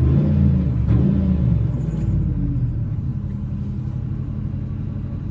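Supercharged 5.4-litre V8 of a 2000 Ford F-150, warm, running through Flowmaster mufflers: a blip of revs that falls back to a steady idle about one and a half seconds in.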